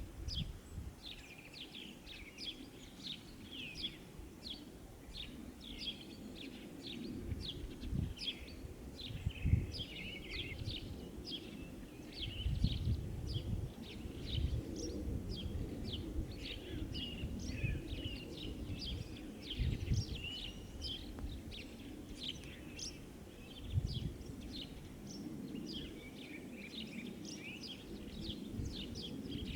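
Many small songbirds chirping and singing over each other without pause, with several low rumbles rising out of a steady low background murmur now and then.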